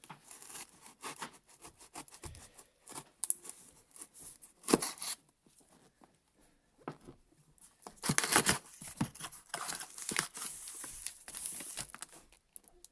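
A package being torn open by hand: irregular tearing, rustling and crinkling of packaging with scattered clicks, including a longer tearing stretch about two thirds of the way through.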